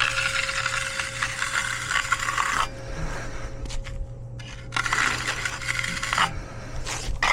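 A hand finishing tool scraping across fresh concrete in long rasping strokes: one of about two and a half seconds, a pause, then a shorter stroke about five seconds in.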